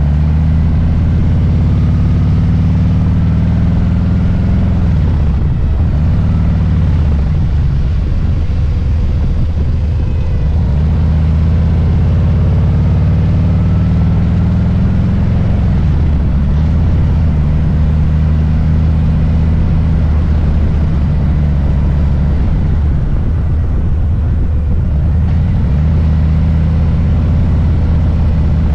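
Harley-Davidson Low Rider S's Milwaukee-Eight V-twin engine running under way: a deep rumble that drops and climbs in pitch several times as the bike eases off and pulls away again.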